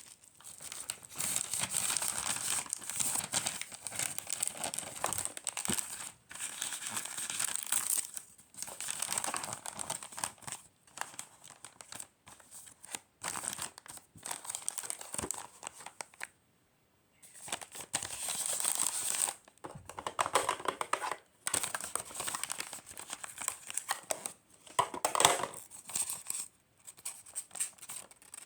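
Close-up crinkling and tearing of wrapping material, handled in irregular bursts with short pauses, the longest about halfway through.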